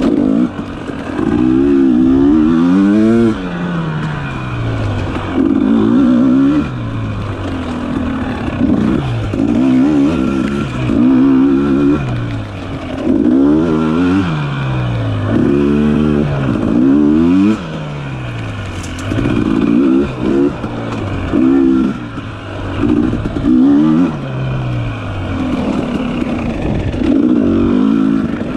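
Dirt bike engine repeatedly revving up and easing off, its pitch climbing and dropping every second or two as the throttle is worked through tight trail riding.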